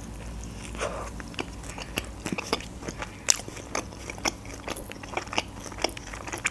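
Close-up chewing of a mouthful of doner kebab in bread: a string of small wet clicks and soft crunches, several a second.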